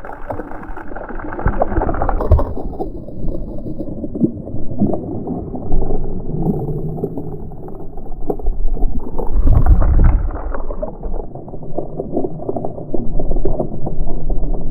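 Muffled water sloshing and gurgling around a GoPro, with scattered knocks and a louder surge about ten seconds in.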